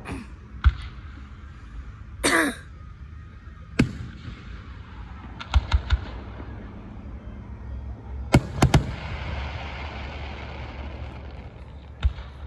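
Fireworks going off: single sharp bangs, two quick runs of three about halfway through and again later, and one last bang near the end, over a low steady rumble. A short rough burst a little over two seconds in.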